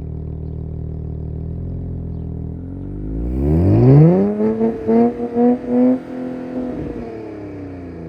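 2024 Nissan Z NISMO's twin-turbo V6 idling, then revved hard about three seconds in. It holds a high note that pulses in loudness several times, then drops back to idle near the end.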